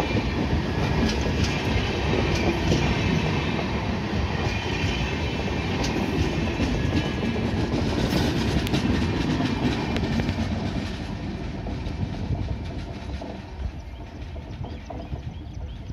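Passenger train coaches rolling past at speed, with steel wheels clicking over the rail joints. The sound fades over the last few seconds as the end of the train moves away.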